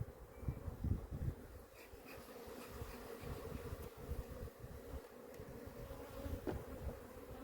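Honeybees buzzing in a steady hum around an opened hive, with irregular low rumbles and a few thumps, the strongest about a second in.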